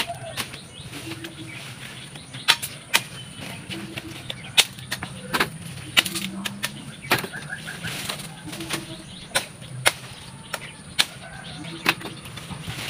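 Irregular sharp snaps and knocks, about one or two a second, from broken branches being cut and cleared by hand.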